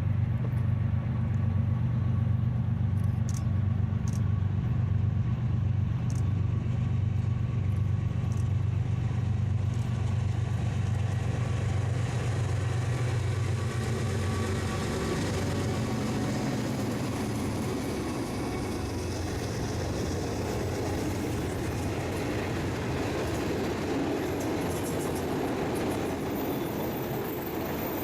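Freight train passing: a steady low engine drone gives way about halfway through to the rolling noise of railcars on the rails.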